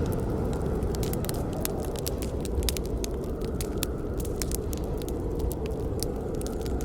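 Campfire burning: wood crackling with many quick, irregular sharp pops over a steady low rumble of the fire.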